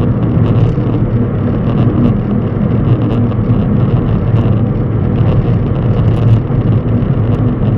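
A steady, loud low rumble of a running engine, with faint ticks and rattles over it.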